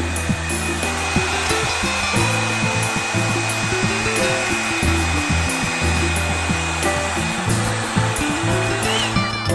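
Hair dryer brush blowing steadily, a rushing air noise with a steady high whine that stops near the end, under background music with a stepping bass line.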